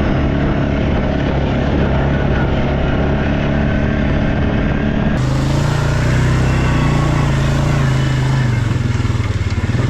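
Quad bike (ATV) engine running loud and steady under riding. About five seconds in the sound cuts to a different recording with a lower, heavier engine note, which drops again near the end.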